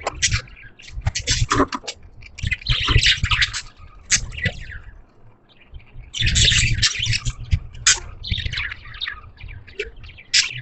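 Budgies (budgerigars) chirping and chattering in quick bursts, with a low rumble underneath.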